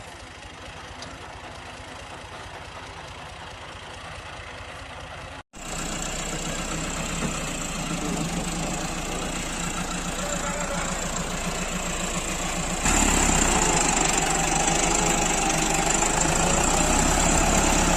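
Heavy farm machine engine running steadily. The sound breaks off briefly about five and a half seconds in and comes back louder, then steps up again about thirteen seconds in.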